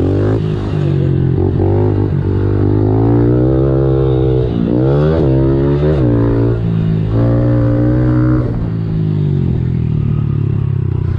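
Small four-stroke pit bike engine being ridden hard, its pitch climbing and dropping again and again as the throttle is opened and shut.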